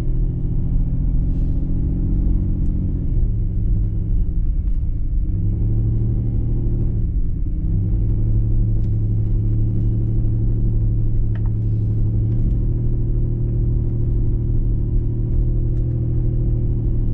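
Car engine and road noise while driving, a steady low drone whose pitch dips and recovers twice in the first half.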